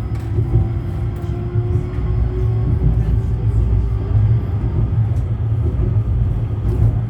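A 71-911EM "Lvyonok-M" tram running, heard from inside: a steady low rumble of wheels on rail with a faint electric whine that rises in pitch over the first few seconds as the tram picks up speed. Light clicks and rattles come through now and then.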